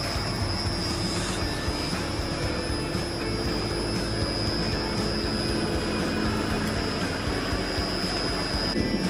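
Heavy machinery aboard a bulk carrier running steadily: an even mechanical drone with a constant high-pitched whine and a low hum.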